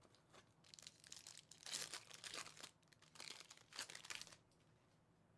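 Plastic trading-card pack wrapper crinkling and tearing as it is handled, in two spells of rustling that stop about four and a half seconds in.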